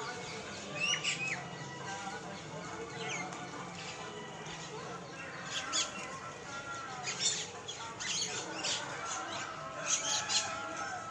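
A flock of birds calling together: many overlapping chirps and squawks, with sharper calls standing out every second or so over a steady chatter.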